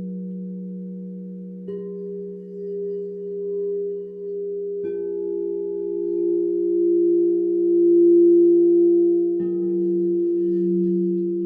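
Crystal singing bowls ringing in long overlapping tones. A new bowl is struck three times, about two, five and nine seconds in, each adding a higher note over the ones still sounding, and the held tones waver slowly in loudness.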